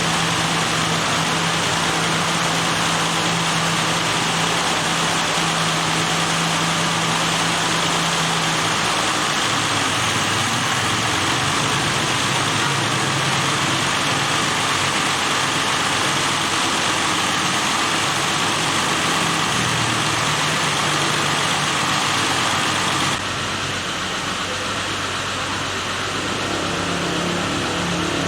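A vehicle engine running steadily, with an abrupt change near the end where the sound becomes quieter and duller.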